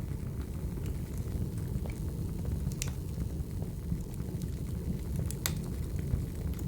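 Wood fire burning: a steady low rumble of flames with sparse sharp crackles and pops, the loudest about three seconds in and again near five and a half seconds.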